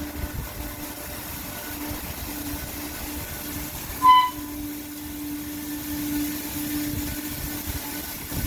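Christ Genius Vitesse rollover car wash machinery running with a steady motor hum and low rumble. A short, loud electronic beep sounds about four seconds in.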